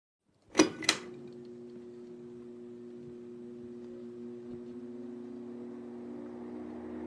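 Two sharp, loud hits about a third of a second apart, then a low steady drone with a faint hiss that slowly grows.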